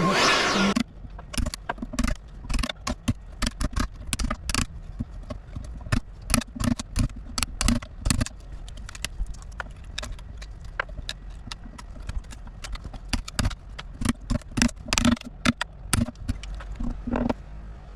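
A power carving tool runs loudly for under a second and cuts off, then a chisel knocks into wood in irregular sharp strikes, sometimes several in quick succession, as the carving is dug out by hand.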